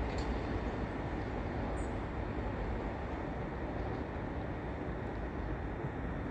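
Southern Class 377 Electrostar electric multiple unit running out of the platform, a steady rail rumble that eases off slightly.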